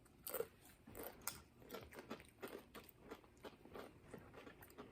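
Faint crunching of Doritos tortilla chips being chewed, with irregular crisp cracks.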